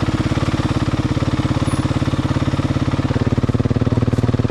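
Single-cylinder four-stroke dirt bike engine idling with a fast, even beat, its note stepping up slightly about three seconds in.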